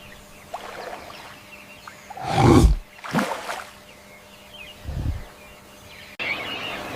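A few short animal vocal sounds, the loudest about two and a half seconds in, with weaker ones soon after and about five seconds in. A sudden cut near the end brings in a steady background noise.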